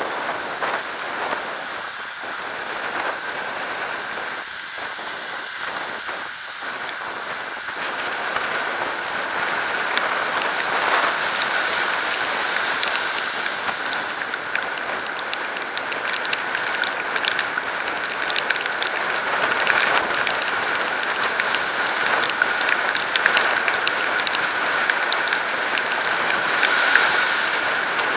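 Rain and road spray striking a camera riding on an electric bike: a steady hiss of water, with a growing patter of sharp drop hits on the camera from about ten seconds in.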